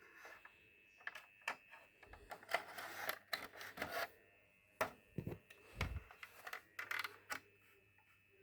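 A run of irregular clicks and knocks, as of the Syster decoder being handled, over a faint steady high whine. A low steady hum comes in about two seconds in: the decoder's internal whirring, as if something were turning inside it.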